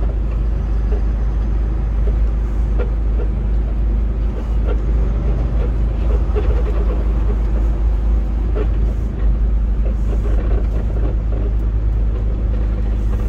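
Semi truck's diesel engine and road noise while driving, a steady low drone.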